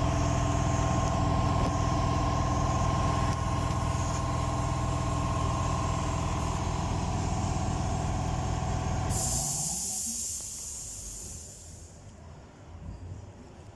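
A motor-driven machine runs with a steady hum, then shuts off about nine seconds in. As it stops, a short hiss of air lasts about three seconds.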